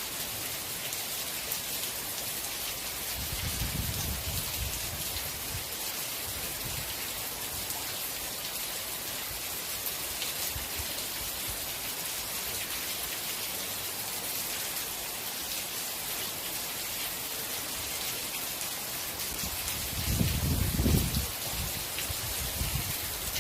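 Steady rain falling, an even hiss, with a low rumble a few seconds in and a louder one near the end.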